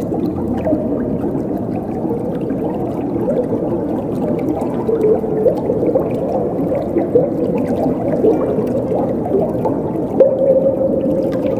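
Running water gurgling and bubbling steadily, deep in tone, with short pitched gurgles coming and going.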